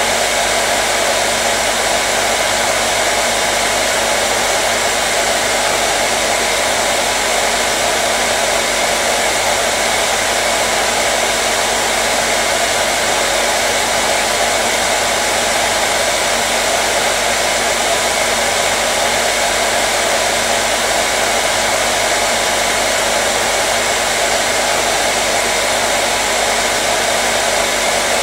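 Hair dryer running steadily, a constant loud rush of blown air with a faint motor hum.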